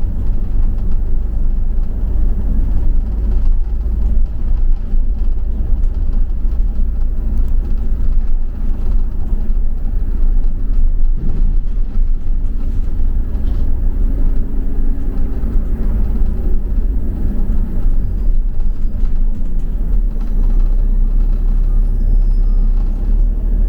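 A double-decker bus in motion, heard from inside: a steady low rumble of engine and road noise.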